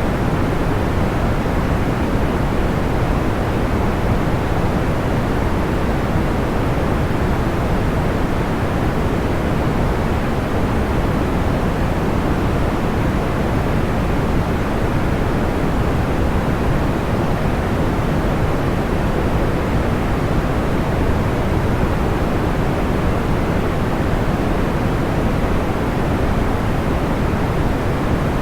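Steady sleep-aid noise, a deep, even hiss with no crackles or pops standing out.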